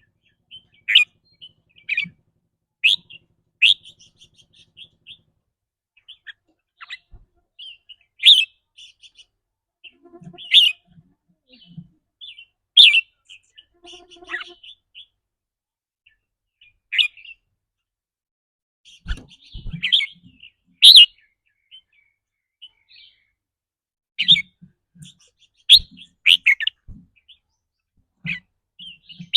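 Red-whiskered bulbul calling in short, sharp chirping phrases, some in quick runs of several notes, with pauses of a second or more between them.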